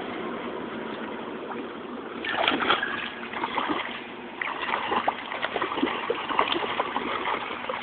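Steady hiss of a car going by on the wet road, then from about two seconds in, a run of quick splashes as a child's feet stamp through a rain puddle.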